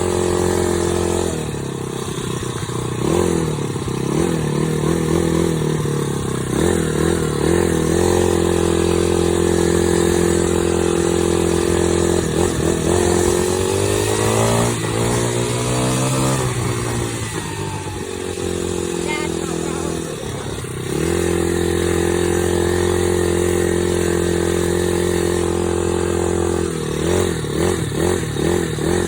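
Dirt bike engine running while being ridden, holding a steady pitch for long stretches and rising and falling with the throttle, with a long climb and drop in pitch about midway.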